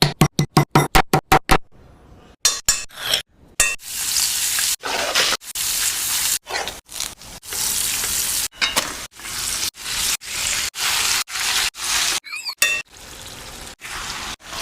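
Chicken frying and sizzling in a pan with stirring and the clink of utensils on the pan, cut into many short clips. It opens with a quick run of sharp strokes, about five a second, for the first second and a half.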